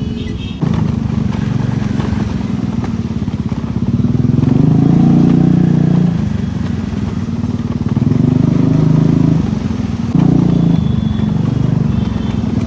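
Motorcycle engine running under way, its note swelling and easing several times as the throttle is opened and closed.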